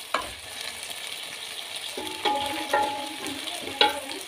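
Taro root pieces sizzling steadily as they are lightly fried in oil in an aluminium pan, stirred with a wooden spatula that knocks against the pan a couple of times. A short wavering tone sounds in the middle.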